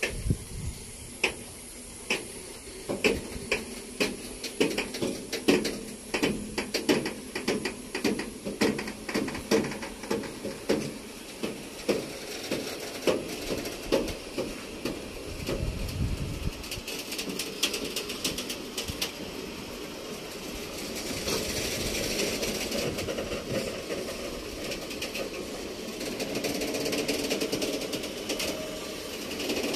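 Freight train of Eaos open wagons rolling past close by: the wheels clack in a steady rhythm over the rail joints, about two beats a second, for the first half. After that the clacks fade into a steadier rolling rumble and hiss.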